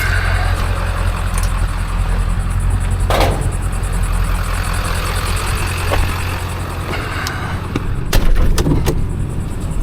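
A vehicle's engine and road rumble, with a sharp knock about three seconds in and a few clicks and knocks near the end.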